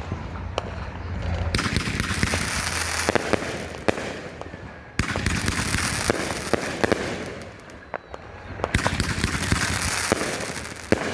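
AFW Surgical Strike 500-gram fireworks cake firing: a run of sharp shots and bangs, with three stretches of about two seconds each of dense crackle as the bursts break.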